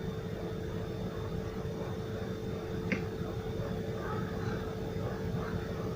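Steady hum and low room rumble, with a single small clink about three seconds in, as a spoon touches a plate while tahini salad is spooned out.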